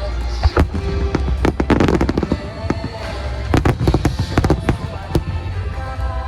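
Starmine fireworks shells bursting in rapid succession, with a thick run of bangs about a second and a half in and another around four seconds in, over music playing alongside the display.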